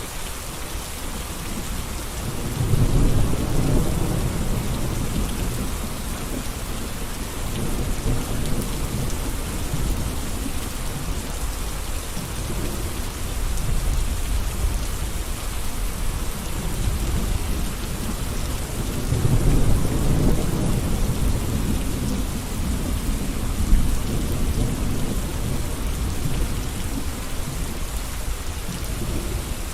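Steady rain falling, with two deep low rumbles swelling up, one about three seconds in and one past the middle, each lasting a few seconds.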